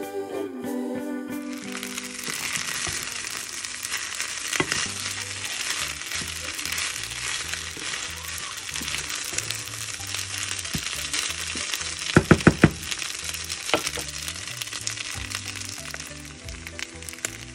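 Rice frying in a nonstick pan, sizzling and crackling steadily as it is stirred with a wooden spatula, with a quick run of sharp knocks about twelve seconds in. Soft background music runs underneath.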